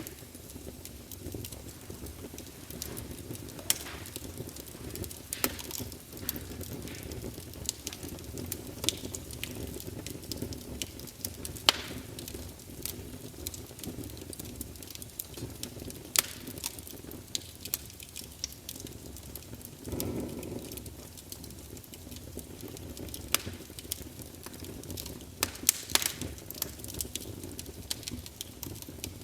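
Wood campfire burning, with a steady low rush and irregular sharp crackles and pops throughout, and a short louder burst about two-thirds of the way through.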